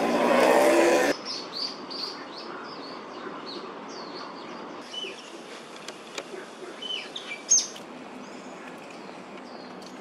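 Small birds chirping, with many short high calls and a sharper, louder call about seven and a half seconds in. For the first second a loud vehicle engine runs, then cuts off abruptly.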